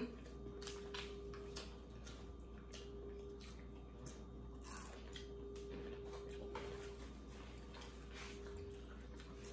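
Close-miked chewing and biting of crispy fried chicken: scattered soft crunches and wet mouth clicks, over a faint steady hum.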